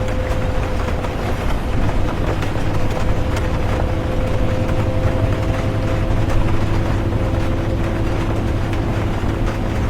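Inside a moving bus: a steady low engine-and-road rumble with a constant droning hum, under an even hiss of rain and tyre noise.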